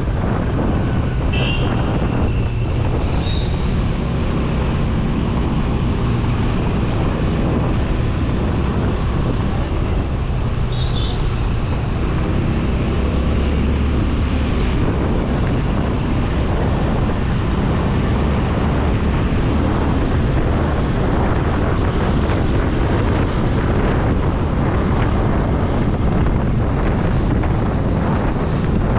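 Motorcycle running steadily at road speed, its engine a low steady hum under heavy wind noise buffeting the microphone. A few brief high-pitched tones sound near the start and again about eleven seconds in.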